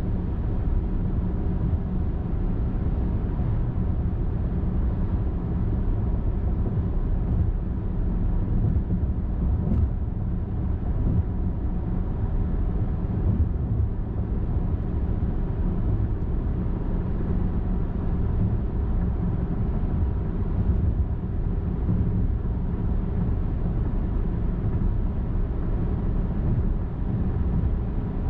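A car cruising steadily on a highway, with an even low rumble of tyres and engine that does not rise or fall.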